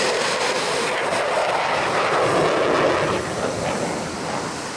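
Jet aircraft engine roar, a steady rushing noise that eases off near the end.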